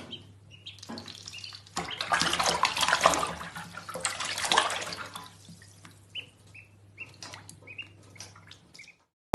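Water running, like a tap into a sink, loudest for a few seconds in the middle, then a series of short high chirps near the end.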